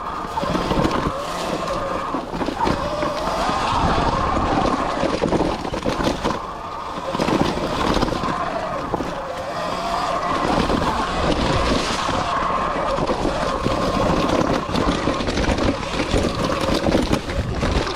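Sur Ron X electric dirt bike riding over rough trail: the electric motor and chain drive whine, the pitch rising and falling with the throttle, over wind on the microphone and frequent knocks and rattles from the bike.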